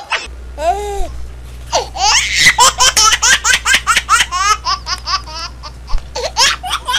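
Laughter: one drawn-out pitched call about a second in, then a fast run of short, high, giggling 'ha' sounds, several a second, lasting to near the end.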